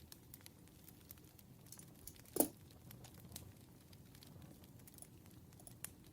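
Campfire crackling: scattered small snaps over a low, steady hiss and rumble of burning wood, with one sharper pop about two and a half seconds in.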